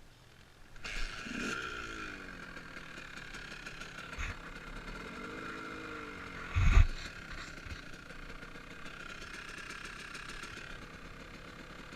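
KTM dirt bike motor running, its pitch falling after a burst about a second in, then rising and falling again a few seconds later. A heavy thump about six and a half seconds in is the loudest moment.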